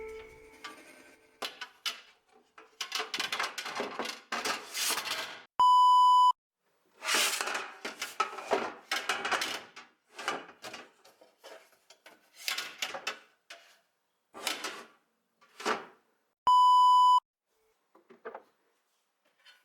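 Two loud, steady electronic beeps, each under a second long and about eleven seconds apart. Between them are stretches of rustling and crinkling handling noise with small clicks and knocks.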